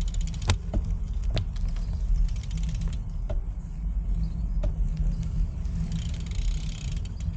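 Low rumble of wind and riding noise on a moving bicycle's camera microphone, with scattered sharp clicks and rattles and a short hiss near the end.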